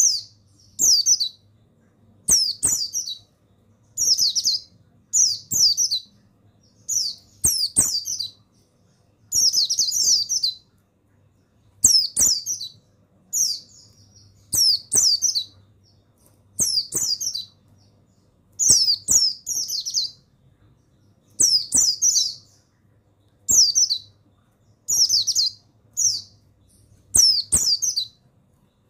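Pleci buxtoni white-eye song: short phrases of rapid, high twittering chirps, repeated about every one and a half to two seconds, over a faint low hum.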